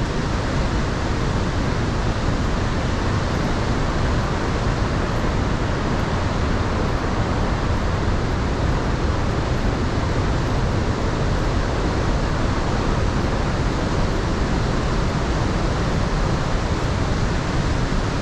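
Steady roar of falling water from Iguaçu Falls, an even rushing sound with no breaks.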